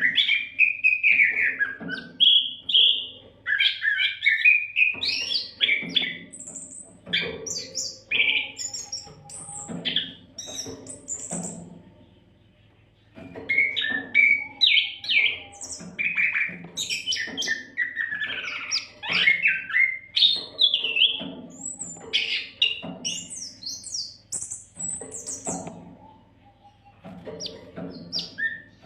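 Oriental magpie-robin (kacer) singing vigorously in a fast, varied stream of short whistled phrases, with a brief pause about twelve seconds in.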